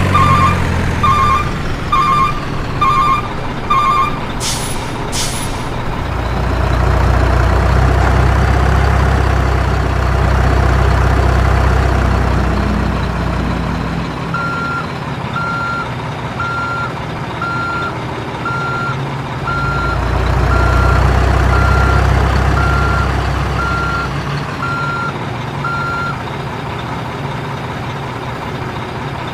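Heavy diesel machinery working, with a backup alarm beeping about once a second for the first few seconds, two short sharp air hisses like air brakes, and then the deep engine rumbling up under load twice. Another string of beeps, slightly higher in pitch, sounds through the middle and later part.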